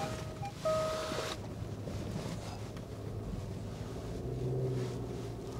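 Four-wheel-drive car's engine running under load as it is driven into wet, packed snow, rising a little about four seconds in. A steady electronic beep sounds for under a second near the start.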